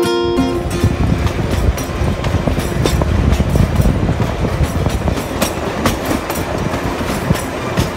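Kalka–Shimla narrow-gauge toy train running along the track, heard from an open coach window: a steady rumble of wheels on rail with frequent irregular clicks and clacks from the rail joints.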